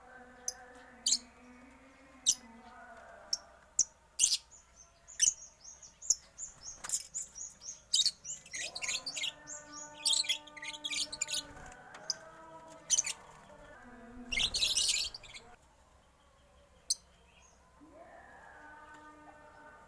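Cage birds in a mixed aviary chirping: many short, sharp, high calls, thickest around the middle, with a louder flurry about three-quarters of the way through.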